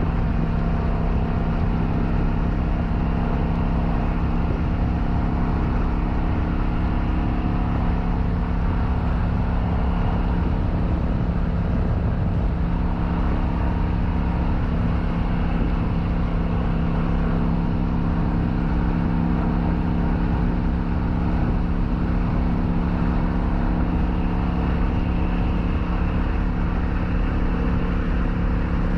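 Kawasaki Vulcan 900's V-twin engine running at a steady cruise, its pitch holding level, with wind rushing over the microphone.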